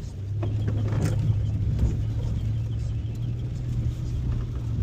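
Car in motion heard from inside the cabin: a steady low engine and road hum that swells slightly about a quarter second in, with a few light clicks.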